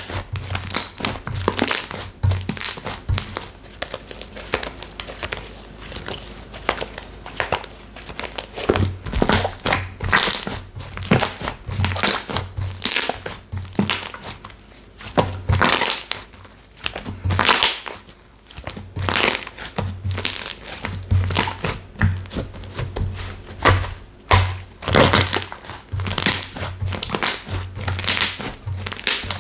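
Textured slime being squeezed, pressed and stretched by hand, giving irregular crinkly, crunchy crackles, with background music underneath.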